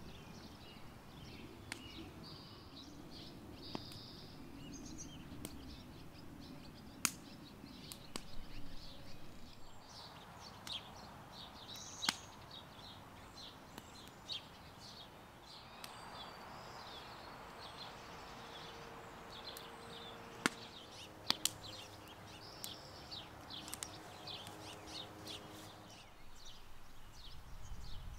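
Quiet outdoor ambience with small birds chirping on and off throughout, and a few sharp clicks scattered through it.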